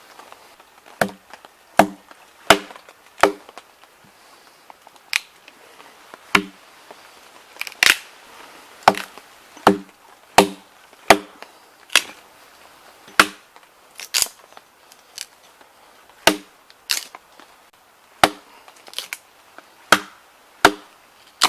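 Dry firewood being split into small pieces with repeated blows: sharp wooden knocks at an uneven pace, roughly one a second, many with a short woody ring.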